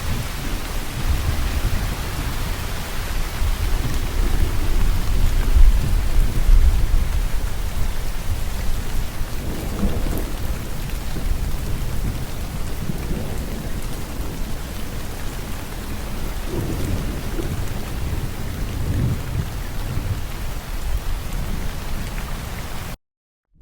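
Steady rain falling, with deep rolling thunder that swells loudest about five to six seconds in and rumbles on more softly later. The sound cuts out completely for about half a second just before the end.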